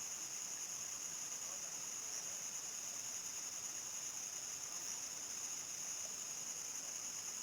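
Crickets chirring in a continuous high-pitched chorus at nightfall, holding steady without a break.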